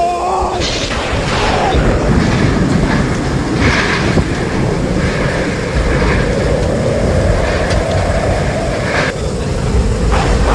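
Thunderstorm noise: a loud, steady rumble of wind and rain.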